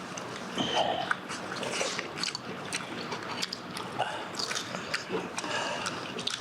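A person eating hot chicken soup (dakgomtang): repeated slurping and chewing, heard as quick wet clicks and smacks.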